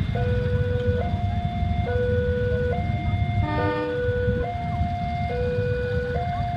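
Railroad crossing warning alarm sounding its two-tone electronic signal, alternating a low and a high tone, each held a little under a second, warning that a train is coming. Under it there is a steady low rumble, and a short horn blast sounds about halfway through.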